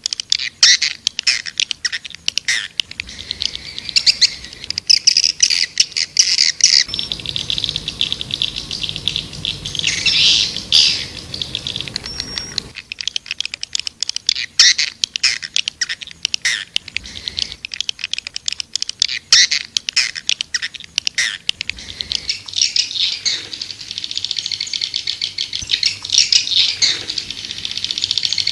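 Swiftlets twittering: a dense, rapid chittering of high-pitched calls and clicks, the swiftlet call sound played to draw swiftlets to a nesting house.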